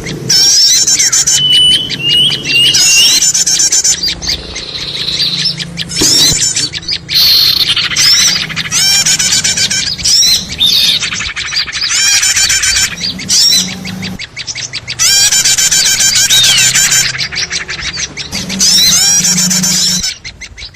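A noisy chorus of many small birds chirping and chattering over one another, a bird-luring (pikat) recording meant to draw small birds in. The chatter is dense and loud, with short breaks every few seconds.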